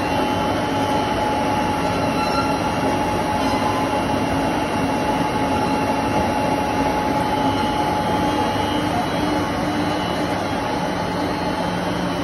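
Briquette press machine running steadily while pressing fireplace-log briquettes: a continuous mechanical rumble with a thin steady whine that fades about two-thirds of the way through.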